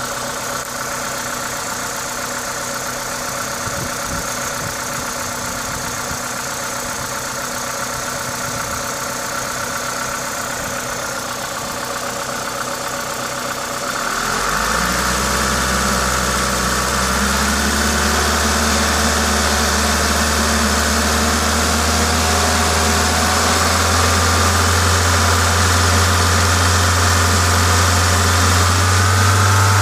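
Toyota 2ZZ-GE 1.8-litre four-cylinder engine running, with the hiss of an aftermarket induction kit, a sound the owner considers normal for this engine. About halfway through, a deeper note comes in and the engine grows louder, its pitch creeping slowly upward.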